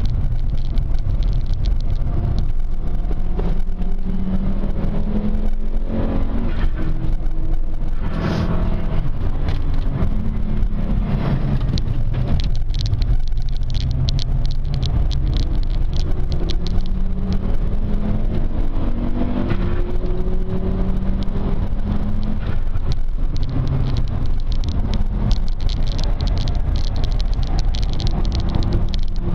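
Inside the cabin of a 1996 Volvo 850 T-5, its turbocharged five-cylinder engine is being driven hard round a circuit. The engine note rises again and again under acceleration and drops back at gear changes and lifts, over a constant low rumble of road noise.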